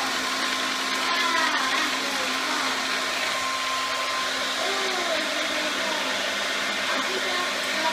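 Homemade cup-and-hose vacuum cleaner running: a steady whirring motor-and-fan noise with a constant low hum.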